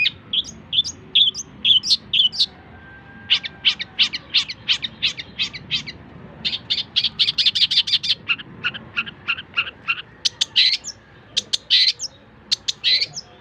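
Long-tailed shrike (cendet) singing: fast runs of short, sharp, high-pitched notes broken by brief chattering phrases and short pauses.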